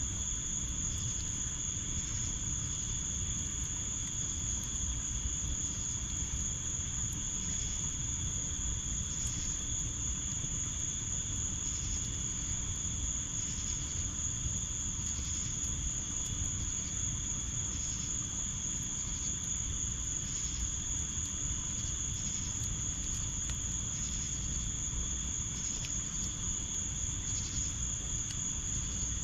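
Crickets trilling steadily in a continuous high tone, over a low, steady rushing background with a few faint pops.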